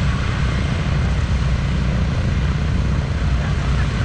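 Propeller aircraft engine running with a steady low drone.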